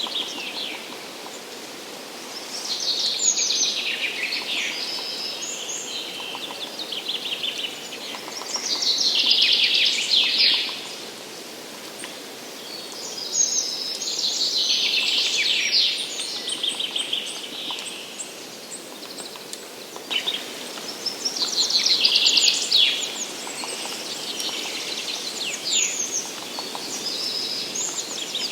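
Songbirds singing in a forest: a loud, high, trilling song phrase of about two seconds recurs roughly every five to six seconds, over a steady background hush.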